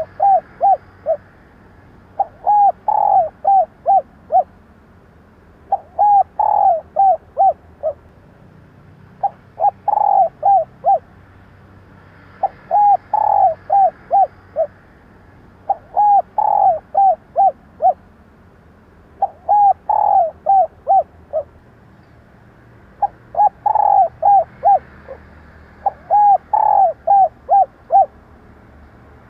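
Female spotted dove cooing. It repeats a phrase of five or six short coos, the first held a little longer, about every three and a half seconds, nine times in a row.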